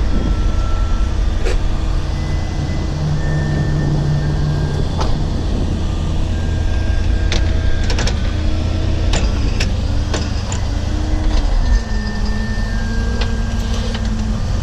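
A motor vehicle running with a steady low rumble, with scattered sharp clicks and short whining tones that change pitch now and then.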